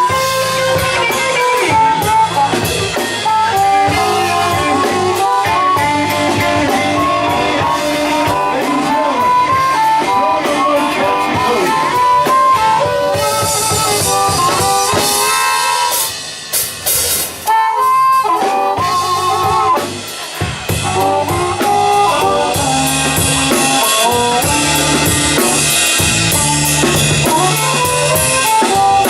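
Live blues band playing an instrumental passage: a melodic lead over drum kit, bass and rhythm guitar. Twice in the second half the band drops out briefly while the lead carries on, in stop-time breaks.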